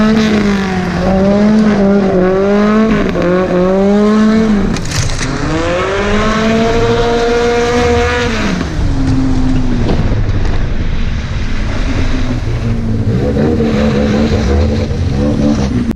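Volvo 740 drift car's red-block four-cylinder engine revving up and down while drifting on a gravel road, with tyre and gravel noise. The revs dip about five seconds in, climb again, then drop away after about eight seconds.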